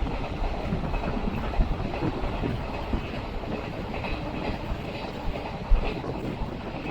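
DEMU train running on the line, its wheels rumbling steadily over the rails with a few sharp thumps.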